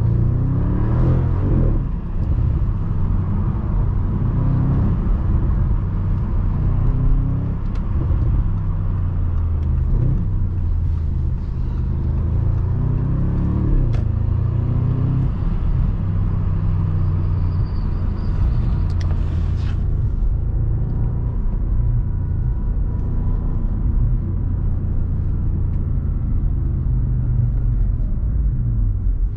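2015 Audi RS6 Avant's twin-turbo V8 and exhaust running under way: a steady low drone whose pitch rises and falls several times as it picks up speed and shifts gear, mostly in the first half.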